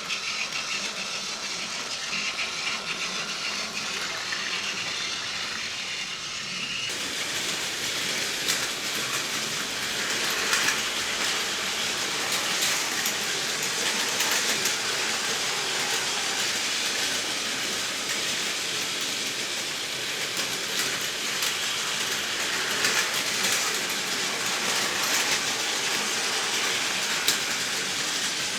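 Battery-powered Plarail toy trains running on plastic track: a steady motor whir with small clicks from the wheels over the track joints. The sound changes abruptly about seven seconds in, growing brighter and busier.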